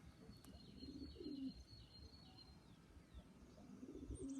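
Pigeons cooing faintly: one low, falling coo about a second in and another near the end. A thin, high-pitched chirping runs through the first half.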